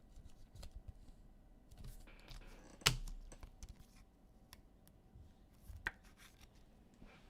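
Light, scattered clicks and taps of hands handling things on a desk, with a sharper tap about three seconds in and another near six seconds.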